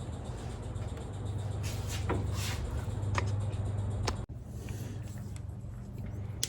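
Several short clicks and light knocks from metal fork parts and seals being handled, over a steady low hum.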